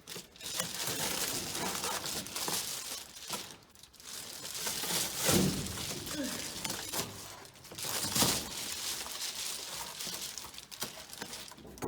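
A large sheet of adhesive-coated car floor insulation crinkling and rustling as it is handled and pressed into place, with louder surges about five and eight seconds in.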